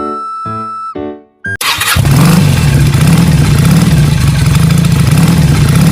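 A short melody of held single notes, then, about a second and a half in, a loud motor starts abruptly and runs steadily with a low hum under a hiss.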